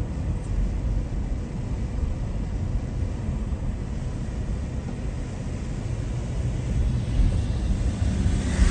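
Vehicle noise: a steady low rumble with a light hiss above it.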